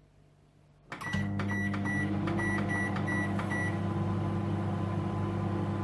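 Microwave oven starting up with a click about a second in, then running with a steady hum. Over the first couple of seconds of running it gives a run of about eight short, high beeps.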